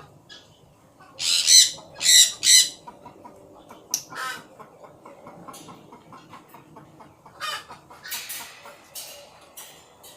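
Parrots squawking: three loud, harsh screeches in quick succession about a second in, followed by scattered softer squawks.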